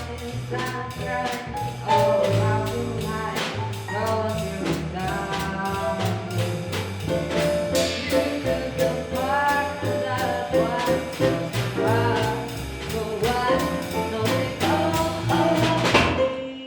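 Instrumental jazz by a small band: melody lines over bass and drums. It breaks off abruptly near the end, where one excerpt is cut to the next.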